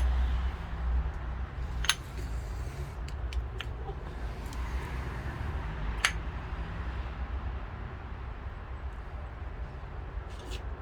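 A few sharp clicks and clinks, as of small metal parts being handled, over a steady low rumble.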